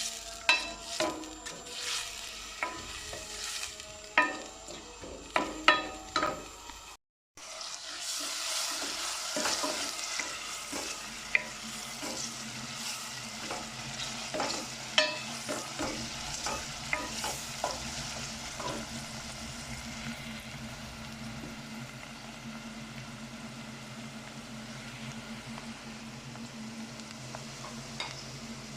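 Brussels sprouts sizzling in olive oil in a pan while being stirred. A utensil knocks against the pan many times in the first seconds. The sound cuts out for a moment about seven seconds in, then steady sizzling follows with only occasional clicks.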